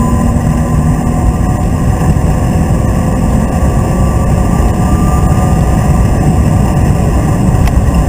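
BMW Z3 2.8's straight-six engine running at speed, heard from inside the cabin, under a heavy low rumble of road noise that runs steadily throughout.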